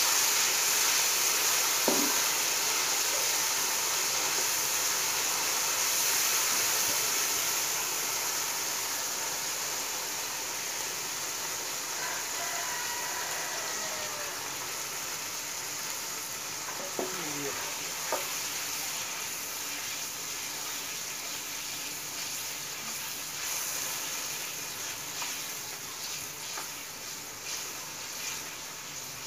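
Onions and red chillies sizzling in hot oil in an aluminium karahi, stirred and scraped with a wooden spoon. The steady sizzle slowly grows quieter.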